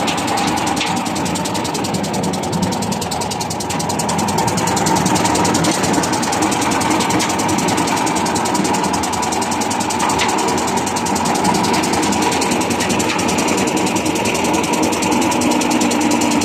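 Air-cooled Lister Petter diesel engine of a Winget 400R concrete mixer running steadily, with a few faint clicks.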